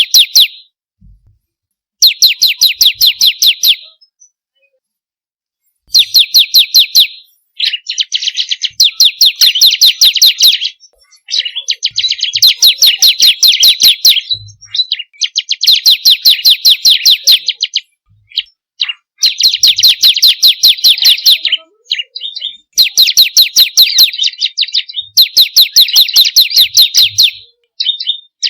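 Ciblek kristal (bar-winged prinia) singing in repeated loud phrases of rapid, sharp chirping notes, several notes a second. Each phrase lasts one to three seconds, with short pauses between phrases.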